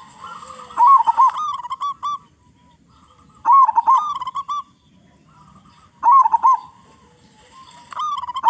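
Zebra dove (perkutut) singing its staccato cooing song: short runs of rapid coo notes, a phrase about every two and a half seconds, four in all.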